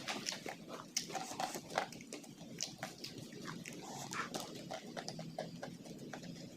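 Close-up eating sounds: a person chewing a large mouthful with irregular wet smacks and clicks of the lips and mouth, several a second.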